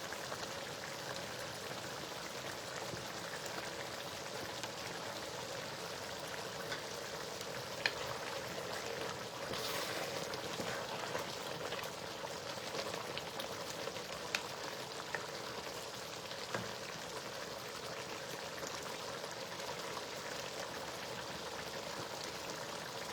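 Pot of stew in red palm oil cooking on the heat: a steady sizzling, bubbling hiss with a few sharp pops.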